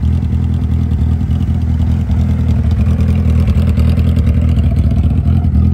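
Suzuki Hayabusa's inline-four engine idling steadily.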